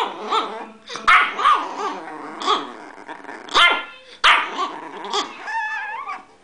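A very small dog barking frantically, a string of sharp, high barks about every second with yapping between them and a short wavering whine near the end.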